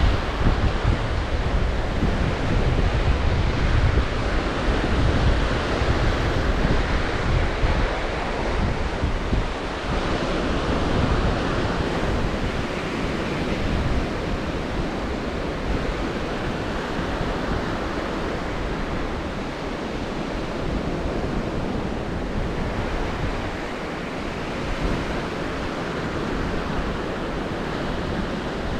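Black Sea surf washing onto the shore in a continuous rush that swells and eases. Wind rumbles on the microphone, heaviest in the first third.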